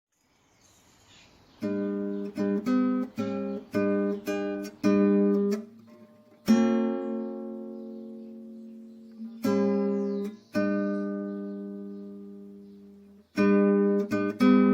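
Acoustic guitar strumming chords. After a quiet start there is a run of short strokes, then chords left to ring and fade for a few seconds, and quick strumming picks up again near the end.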